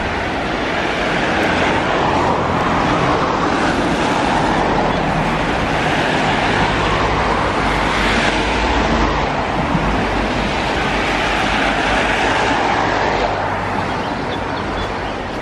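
Loud, steady rushing noise of wind buffeting the camera microphone, mixed with road traffic on a wet road, swelling and easing a few times.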